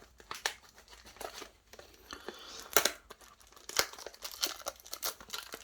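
Plastic wrapping on trading-card packaging being crinkled and torn at, in irregular crackly bursts, as the second booster box is opened.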